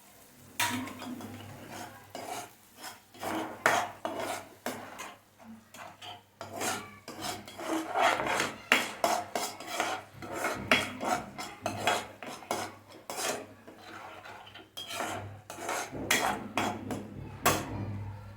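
A spoon stirring a thick sauce, scraping and clinking against the dish in quick irregular strokes as the butter, chilli sauces, cashews and tomato sauce are mixed together.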